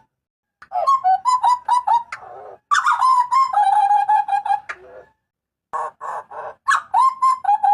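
Butcherbird (jagal papua) giving loud, varied calls: phrases of clear notes near the same pitch, some harsher rasping notes, and a short run of quick repeated notes, broken by brief pauses.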